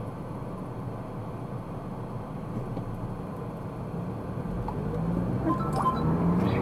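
Car driving noise, a steady mix of engine and road noise. In the last couple of seconds it grows louder and the engine note rises as the vehicle speeds up.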